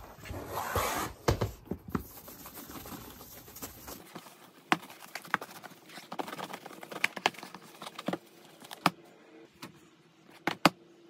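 A bag rustling as it is moved by hand for about a second and a half, then scattered light clicks and taps as a cardboard box and objects are handled on a desk.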